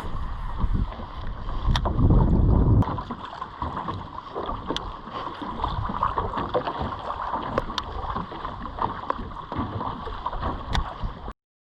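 Wind buffeting the microphone in an open jon boat on a lake, with gusts strongest about two seconds in and a few sharp light clicks scattered through. The sound cuts off suddenly near the end.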